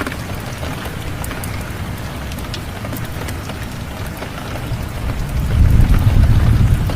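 Steady rain falling, with scattered sharp crackles from a wood fire. A low rumble swells about five seconds in and stays loud to the end.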